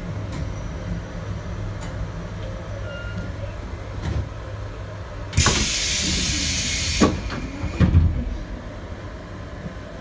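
JR Hokkaido 721 series electric train running with a steady low rumble. About five seconds in, a sudden loud rush of hiss-like noise lasts under two seconds, followed by a couple of sharp knocks.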